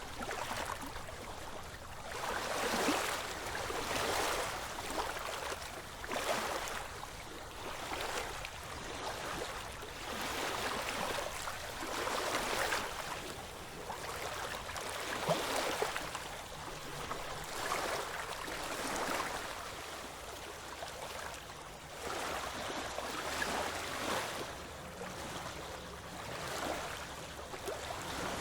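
Ocean waves washing in: a steady hiss of surf that swells and falls back every couple of seconds.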